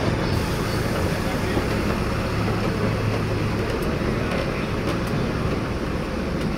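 Steady running noise of a slow-moving narrow-gauge passenger train, heard from one of its coaches: wheels on the rails and a low, even hum from the ZDM-5 diesel locomotive hauling it.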